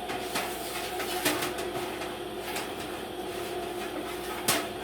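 A steady hum with a few sharp knocks, the loudest near the end.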